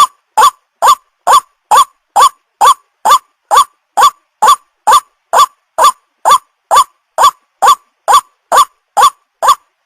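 White-breasted waterhen (ruak-ruak) call played as a lure: one short, sharp note repeated at a very even pace, a little over two a second.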